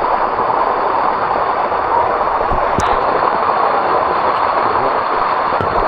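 Steady rush of water flowing and cascading over the limestone of a waterfall, with a faint click about three seconds in.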